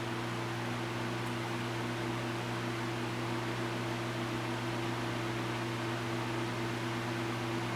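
Lakewood model 1500A 15-inch table fan running steadily on medium speed: an even rush of air from the blades over a constant low hum from its Fasco-style motor.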